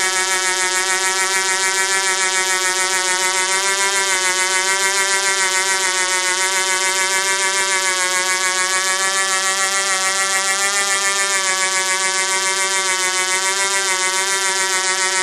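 Vintage Du-Bro Whirlybird 505 R/C helicopter running at a steady speed: its model glow engine gives a high, even buzz with a quick, regular pulse from the spinning main rotor.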